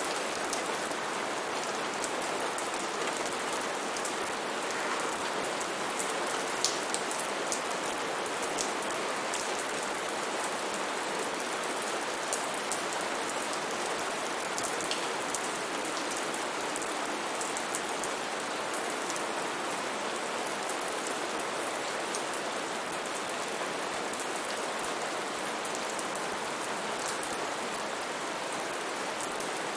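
Steady heavy rain falling, an even wash of noise with many distinct drops ticking and pattering on surfaces throughout.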